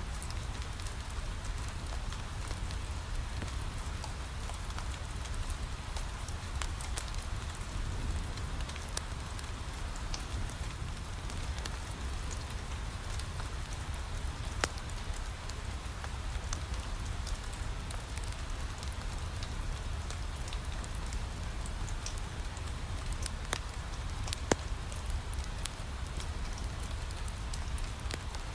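Steady rain on a window glass mixed with a crackling wood fire in a fireplace, over a low rumble. Scattered sharp pops; the loudest come about fifteen and twenty-four seconds in.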